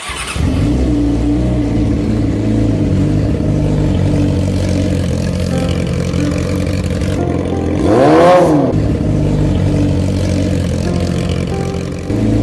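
Motorcycle engine running steadily, with one quick rev that rises and falls in pitch about eight seconds in.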